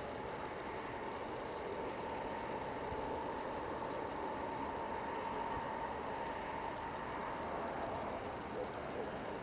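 Railway train running steadily, an even rumbling noise with a faint steady whine.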